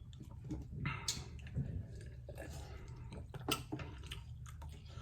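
A person chewing and biting hot chicken wings close to the microphone: irregular soft mouth clicks and wet smacks.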